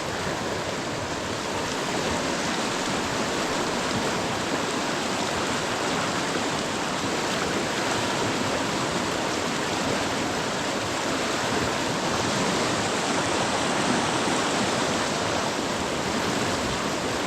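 River running high and heavy after a night of heavy rain: a steady rushing of water.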